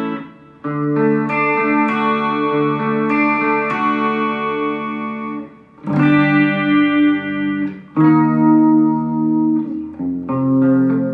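Electric guitar played through a Mooer GE100 Pro multi-effects processor preset. Sustained chords ring out, and a new chord is struck about a second in, again near six seconds, near eight and near ten, with short gaps between them.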